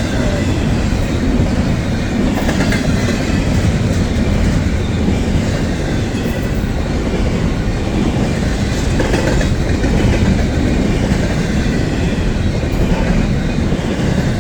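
A long freight train rolling steadily past at close range, its cars' wheels clattering over the rail joints with a continuous rumble.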